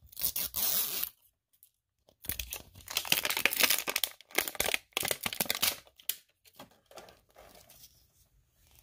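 Wrapping on an LOL Surprise toy being torn open and crinkled by hand: a short burst of tearing at the start, then a longer stretch of tearing and crinkling from about two seconds in that tapers off after about six seconds.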